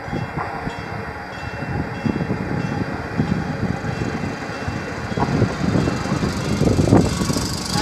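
Suburban train running by, a steady low rumble with irregular thumps and knocks.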